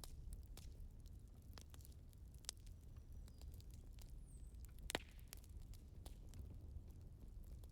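Firewood burning and crackling: scattered sharp pops and snaps over a low steady rumble, the loudest pop about five seconds in.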